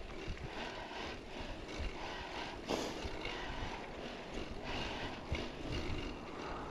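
Mountain bike rolling along a dirt trail: tyres crunching over dirt and rock, with a few sharp knocks. Wind noise rumbles on the microphone.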